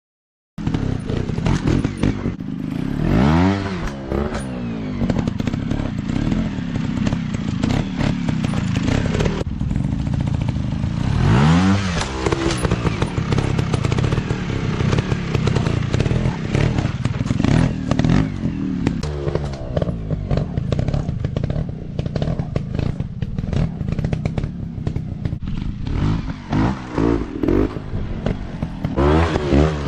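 Dirt bike engines running hard and revving, their pitch surging up and down several times, mixed with many sharp clicks and knocks. The sound cuts in abruptly just under a second in.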